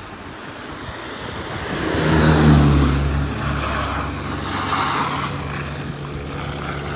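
Heavy truck diesel engine running close by, growing louder about two seconds in and then holding a steady low drone.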